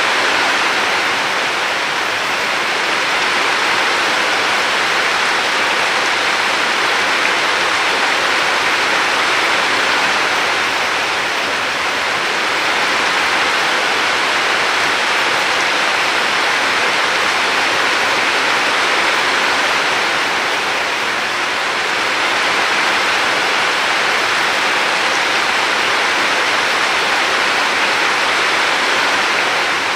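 Steady rush of flowing river water, swelling and easing gently every several seconds.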